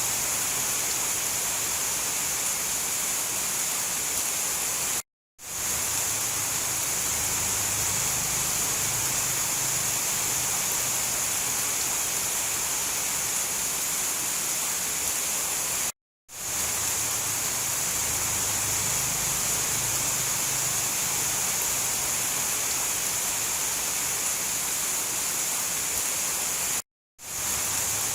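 Steady heavy rain hiss, even and unbroken except for three drops to total silence lasting a fraction of a second each, about eleven seconds apart.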